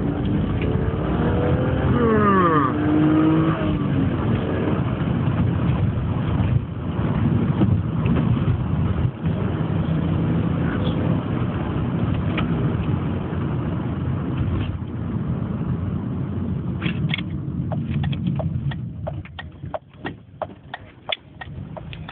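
BMW E36 328i's 2.8-litre M52 straight-six engine pulling at full throttle in second gear from low revs. Near the end the engine sound drops away and a run of sharp clicks is heard.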